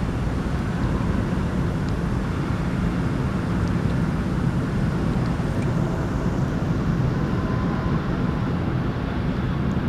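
Freight train rolling past: a steady low rumble of the cars on the track.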